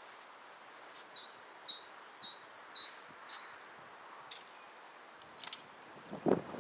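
A small songbird singing a run of short high notes in pairs, about six pairs in two and a half seconds. Near the end, wind starts buffeting the microphone.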